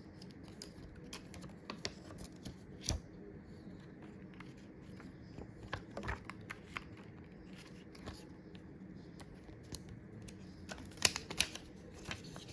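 Scattered small clicks and taps of hands handling phone parts and a thin adhesive seal, with a few louder ticks near the end.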